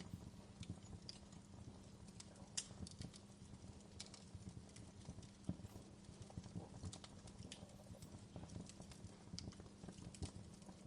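Wood fire crackling and popping: irregular quiet snaps with an occasional sharper pop, over a low steady hum.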